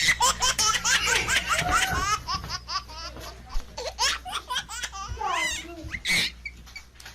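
A small child laughing in quick repeated high-pitched bursts, strongest in the first couple of seconds and thinning out toward the end.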